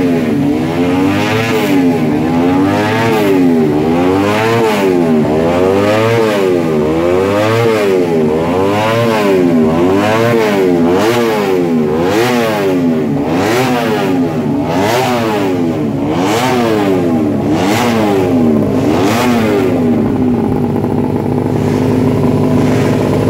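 Yamaha underbone race bike's single-cylinder engine on a paddock stand, revved up and down by hand about once a second as it is warmed up before the race, then settling to a steady idle about 20 seconds in.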